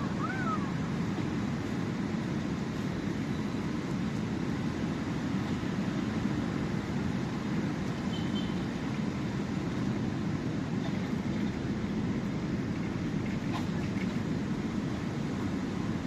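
Steady, unbroken sea surf with a low, even wash of waves. In the first second a short wavering call rises and falls in pitch over it.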